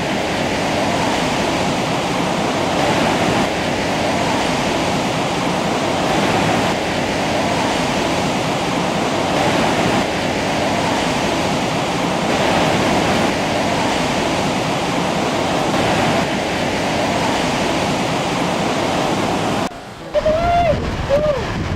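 Steady rushing of ocean surf. Near the end it cuts off and a few short whistled bird chirps with sweeping pitch follow.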